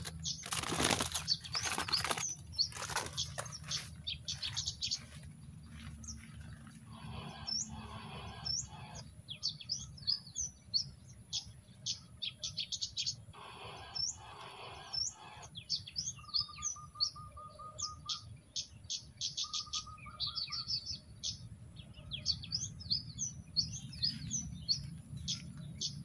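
Small birds calling: many short, high chirps and rapid trills, with a lower buzzy trill twice near the middle. A few rustles in the first few seconds.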